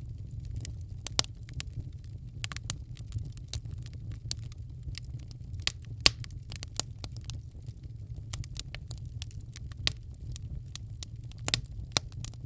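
Wood fire crackling in a fireplace: irregular sharp pops and snaps over a steady low rumble, with a louder pop about six seconds in.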